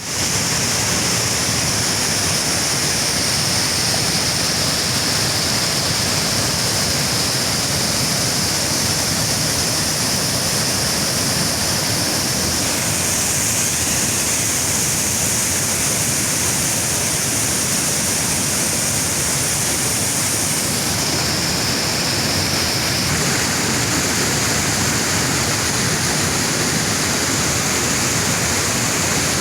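Waterfall rushing steadily, a dense, even wash of falling water, with slight shifts in its tone about halfway through and again later.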